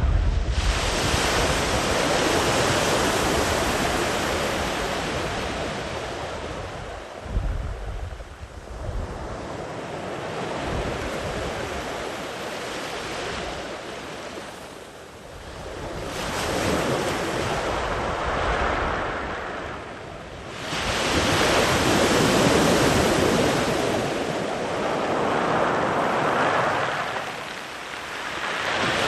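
Sea waves breaking and washing up the beach, the surf swelling and ebbing as successive waves come in, with lulls between the bigger sets.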